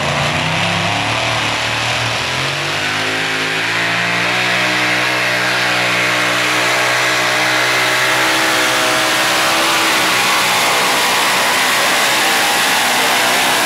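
Super modified four-wheel-drive pulling truck's engine at full throttle on a pull. The revs climb over the first few seconds and then hold high and steady.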